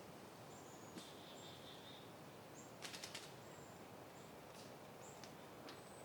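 Faint outdoor wind ambience, a soft steady hush, with small birds giving short high chirps scattered throughout. About three seconds in there is a quick run of four sharp clicks.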